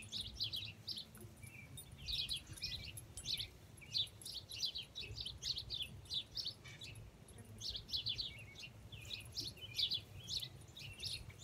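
Songbirds chirping: quick clusters of short, high chirps repeating again and again, over a faint low rumble.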